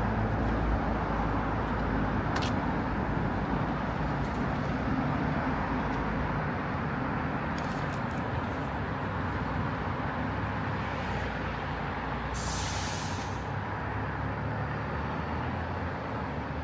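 Steady road traffic on a city street: engine rumble and tyre noise from passing cars and buses. A short hiss about twelve seconds in.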